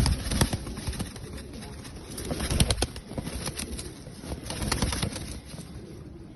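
Fancy pigeons cooing, with flapping wings and scuffling clicks, loudest at the start and in swells twice more.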